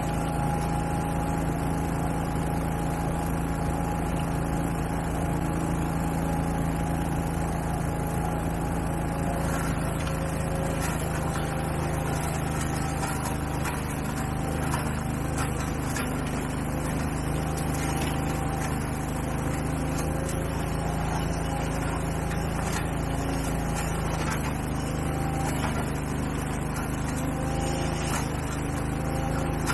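Engine of outdoor power equipment running steadily at constant speed, with faint scattered ticks over it.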